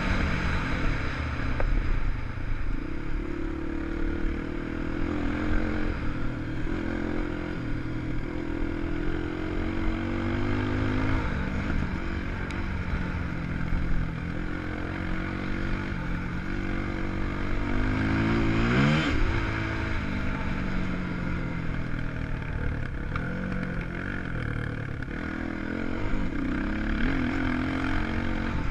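A 250 cc enduro motorcycle's engine being ridden hard, its pitch climbing and dropping again and again as the rider works the throttle and gears. About two-thirds of the way through, one sharp rev rises quickly. A rough rushing noise sits under it throughout.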